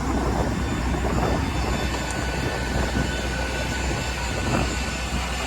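Steady aircraft noise aboard a Boeing 737-800: a continuous low rumble with an airy hiss over it.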